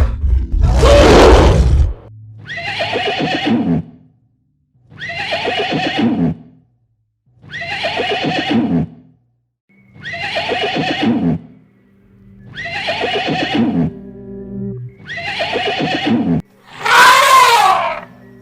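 Animal calls: a noisy burst, then six near-identical calls about two seconds apart, each falling in pitch, and near the end a call that sweeps up and down in pitch.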